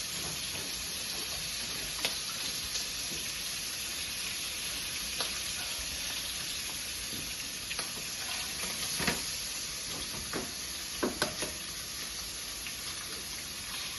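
Sausage meat sizzling in a frying pan, a steady frying hiss, with a few light clicks and knocks of a utensil stirring in the pan.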